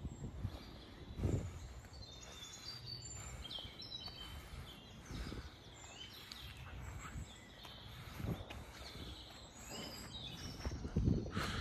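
Several songbirds singing and chirping in short, bright phrases, with a few low thuds and a louder rustle near the end.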